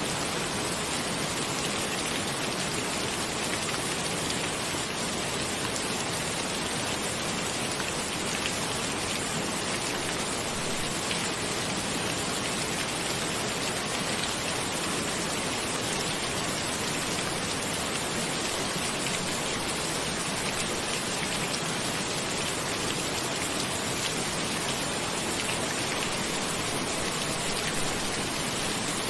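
Steady rain: an even, unbroken hiss of falling drops, with no single drips, thunder or change in intensity.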